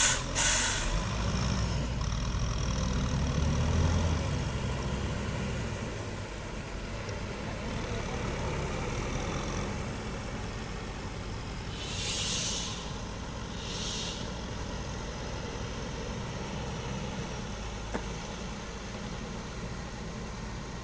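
Scania P 360 truck's diesel engine running, building over the first few seconds and then settling to a steady run. Short hisses of air from the truck's air system come twice at the start and twice more about twelve and fourteen seconds in.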